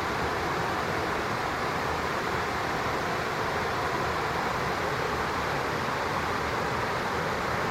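Steady rushing of flowing stream water, an even noise with no change and no bird calls standing out.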